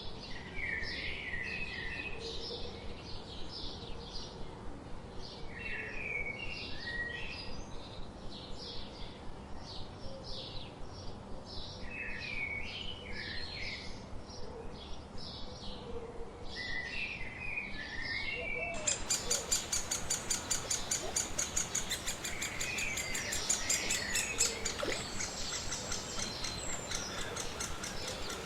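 Birds calling: a steady string of short high chirps, with a short warbled song phrase repeating about every five or six seconds. About two-thirds of the way through, a denser, higher run of rapid chirping takes over.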